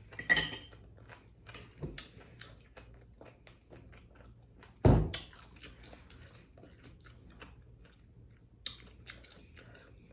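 Close-miked chewing of fried fish with coleslaw: many small wet mouth clicks, with a sharp crunch just after the start and a loud dull thump about five seconds in.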